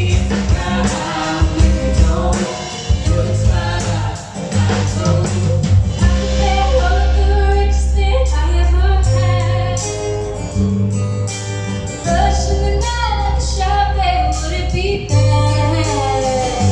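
Live band playing a song with sung lead vocals over ukulele, lead guitar, bass and drums; held bass notes and a steady drum beat run under the vocal line.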